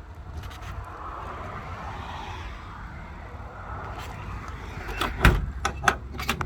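1987 K10 pickup's engine running steadily with a low rumble. A cluster of sharp knocks comes near the end.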